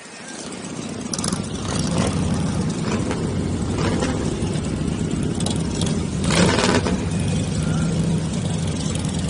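Motorcycle engines running and revving. The sound swells over the first two seconds into a steady low rumble, broken by a few brief louder bursts.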